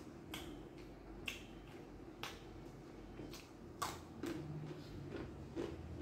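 A person chewing food with the mouth close to the microphone, with sharp wet mouth clicks and crunches every half second to a second.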